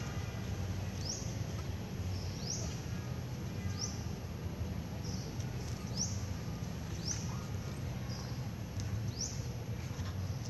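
A bird calling repeatedly: short, high chirps that sweep upward, about one a second, over a steady low background rumble.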